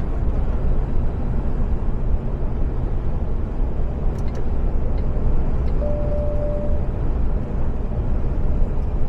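Iveco Stralis 510 truck driving along in automatic mode, heard from inside the cab as a steady low engine and road drone. There are a few faint ticks, and a brief steady tone about six seconds in.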